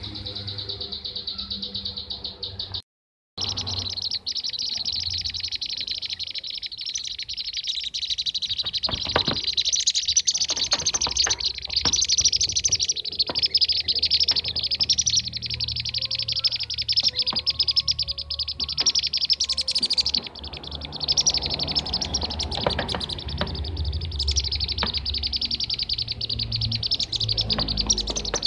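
Bee-eater (kirik-kirik) calls played as a lure recording: a dense, unbroken stream of rapid high chirps, cut by a brief drop-out about three seconds in.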